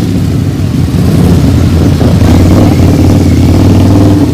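A motor vehicle's engine running loud and steady, its low hum holding an even pitch with slight swells.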